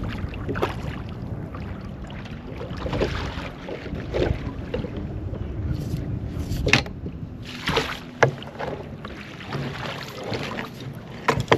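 Low, steady rumble of wind and water around a small fishing boat, with scattered knocks and clicks from handling gear in the boat.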